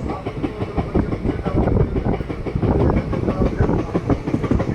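An ICF passenger coach running along the track, with a steady loud rumble and wheels clattering over the rails.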